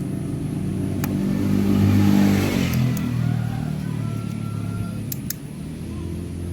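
A motor vehicle engine revving up and dropping back, loudest about two seconds in.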